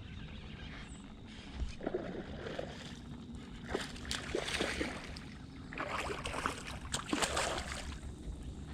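Water splashing and sloshing in three irregular bursts as a hooked largemouth bass thrashes at the surface while being landed, over a steady low rumble of wind on the microphone.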